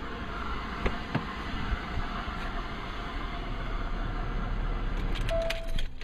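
Car engine idling steadily, with two sharp clicks about a second in and a short single-pitch beep near the end. The running noise drops away at the very end.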